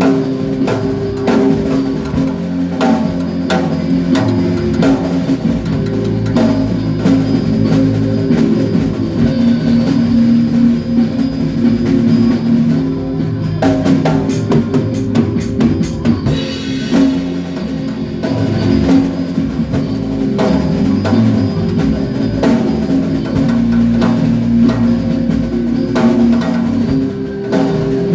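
A band playing a song at rehearsal: a drum kit keeping a steady beat with bass drum and snare, over sustained low bass notes.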